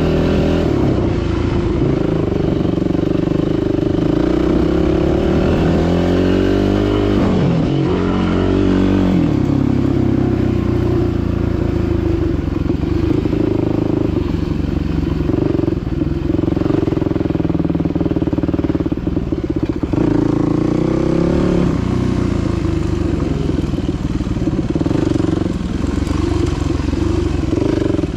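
Dirt bike engine running continuously under way, its pitch falling and climbing again as the throttle is rolled off and back on, about a quarter of the way in and again around two-thirds through.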